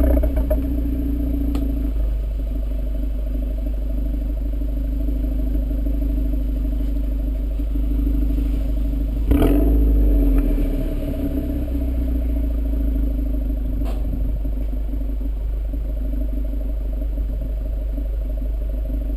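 2011 Volkswagen GTI's turbocharged four-cylinder engine running through an APR turboback exhaust at fairly steady revs while driving, a low exhaust drone with a deep rumble beneath. A brief knock sounds about nine seconds in.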